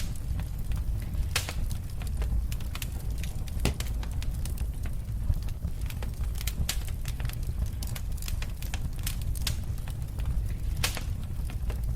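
Wood fire burning in a fireplace: a steady low rumble of flames with frequent irregular crackles and snaps, a few louder pops among them.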